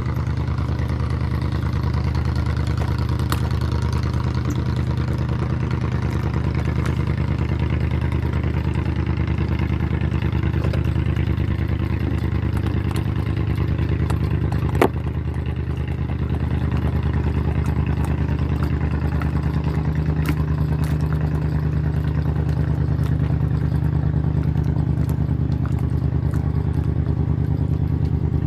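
An engine running steadily at an even pitch, with one sharp click about halfway through.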